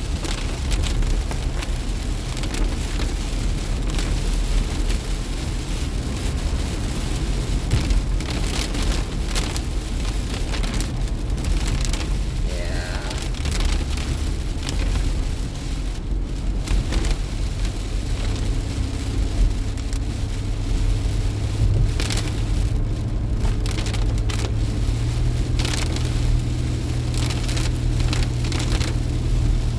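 Heavy rain pattering on a moving car, heard from inside the cabin over steady low road and engine rumble. A low steady hum grows louder in the second half.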